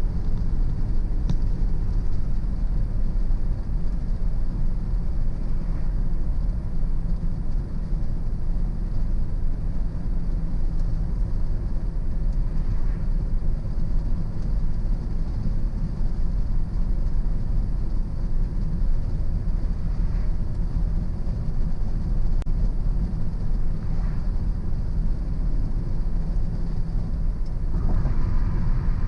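Steady low rumble of a car driving at road speed: engine and tyre noise on the road surface.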